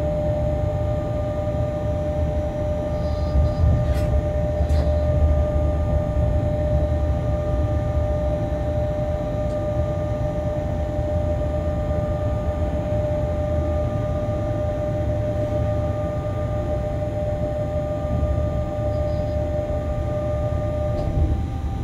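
Freight train running along the track, heard from the locomotive's cab: a steady low rumble with a constant whine, and two sharp clicks about four seconds in.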